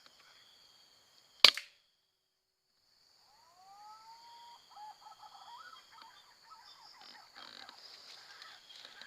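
A single sharp shot from a silenced Canon 747 Long Bold air rifle about a second and a half in. Later, faint rising whistled bird calls sound over a steady high buzz of insects.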